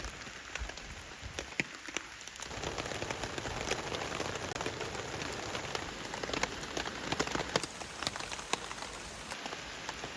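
Heavy rain falling, with many separate drops striking a surface close by as sharp ticks; the rain grows louder about two and a half seconds in.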